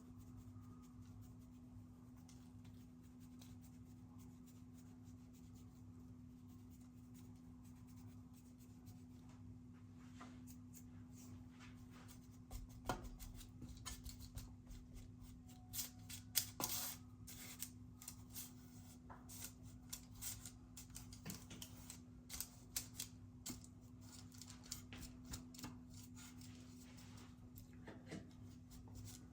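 Irregular light clicks and taps of small objects being handled, starting about a third of the way in, over a steady low electrical hum.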